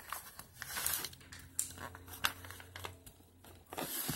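A sheet of paper being handled and folded, with several short rustles and crinkles as it is doubled over and creased.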